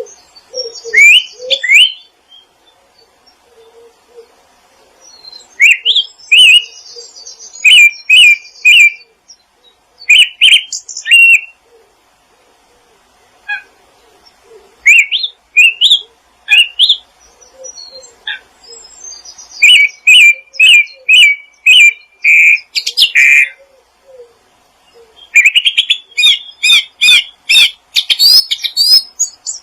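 Small songbirds chirping and singing outdoors in loud bursts of quick, sharp, sweeping notes, with short pauses between phrases. Faint low calls sound softly underneath.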